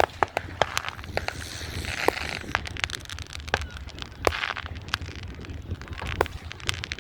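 Fireworks going off: a string of sharp irregular bangs and cracks, with crackling in between.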